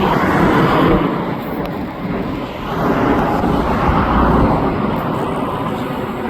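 Jet aircraft engine noise, a loud steady rush with a low rumble beneath, swelling about a second in and again around three to four seconds in.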